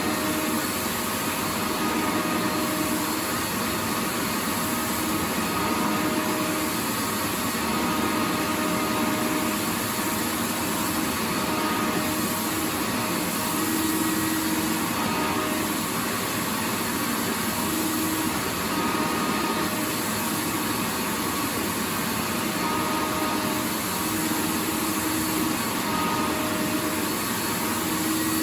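Vacuum cleaner running steadily: an even hiss spread across the range, with a faint hum that wavers slightly in level.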